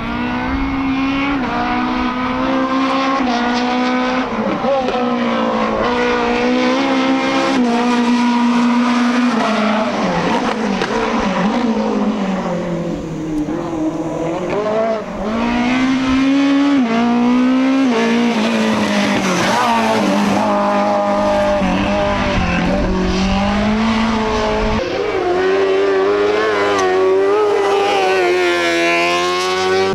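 Race car engine at full throttle on a hillclimb, revving up through the gears, with the pitch climbing and dropping sharply at each gear change and lift-off before corners.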